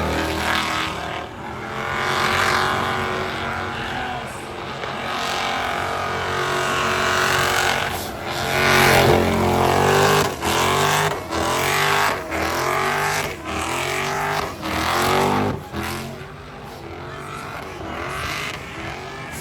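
Drift car's engine revving hard and falling back over and over as the throttle is blipped on and off, with tyre squeal as it slides. It is loudest in the middle and quieter near the end.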